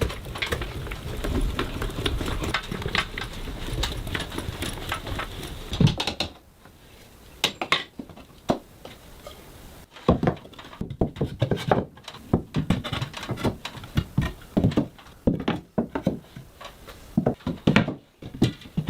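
Wood being worked with hand tools: about six seconds of dense scraping and clatter, then irregular separate knocks of tools and timber.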